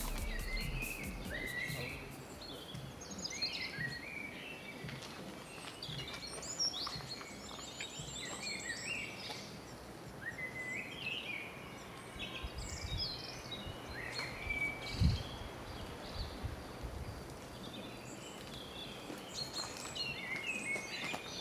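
Songbirds singing and calling, a steady run of short chirps and warbles, over faint outdoor background noise. A single low thump about fifteen seconds in.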